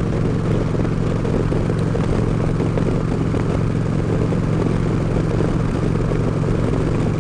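Harley-Davidson Road King's V-twin engine running at a steady cruising speed, with a constant engine note and even road and wind noise.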